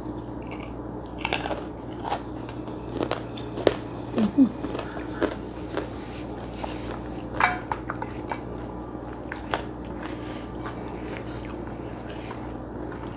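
Close-up chewing and mouth sounds of a person eating with her fingers, with crunching bites and scattered sharp clicks, thickest in the first half, over a steady low hum.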